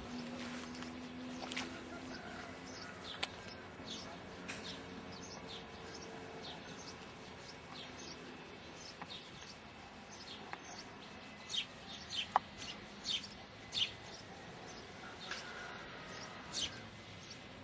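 Small birds chirping: short, sharp, high calls scattered throughout, coming thicker and louder about two-thirds of the way in. A faint low hum sits underneath for the first several seconds.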